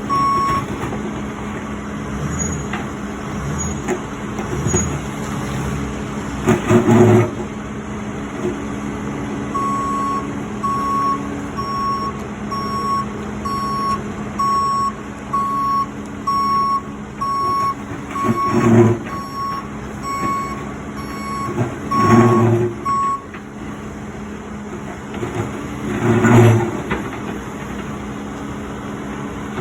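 Reversing alarm on a heavy vehicle beeping about once a second over a steady engine hum; the beeping stops about three-quarters of the way through. Four loud short bursts of noise stand out above the engine.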